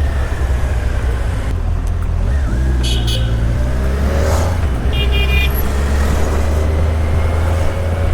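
Kawasaki Ninja 1100SX inline-four engine running steadily under way in city traffic, its note shifting about two and a half seconds in. Vehicle horns toot briefly near three seconds and again around five seconds.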